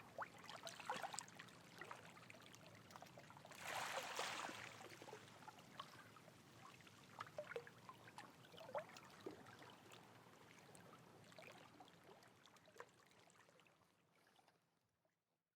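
Faint trickling water with many small drips and splashes, one louder rush of water about four seconds in; the sound fades out to silence near the end.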